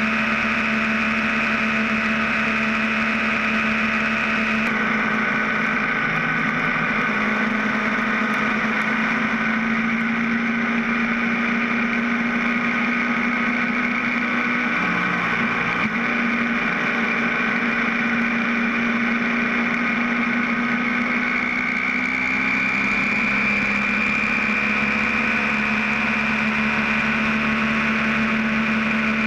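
BMW F650 GS motorcycle engine running steadily at highway cruising speed, heard from a camera mounted low on the bike, with a constant rush of wind and road noise. The tone shifts slightly about five seconds in.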